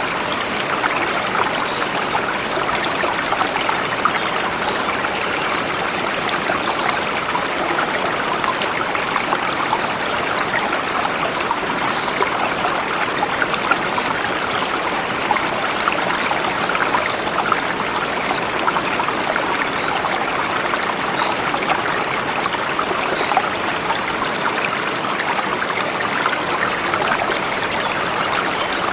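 Forest river flowing steadily over rocks, a continuous rush of water.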